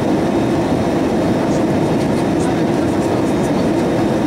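Steady cabin noise inside an Airbus A320-232 airliner: a constant rumble of engines and airflow with no changes in level.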